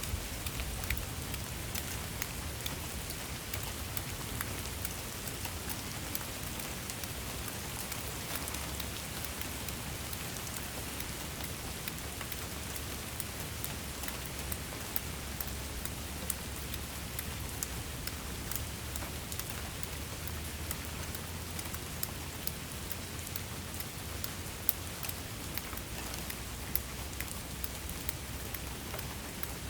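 Steady rain falling, with a dense patter of individual drops striking a surface and a low background rumble.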